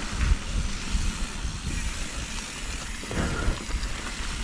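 Wind rushing over the microphone with an uneven low rumble, as a mountain bike rolls along a dirt trail.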